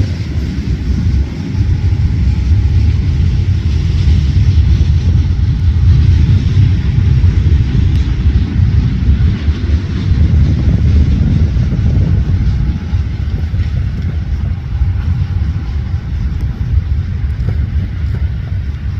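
Steady low rumble of a vehicle in motion, with a fainter hiss above it and no sharp events.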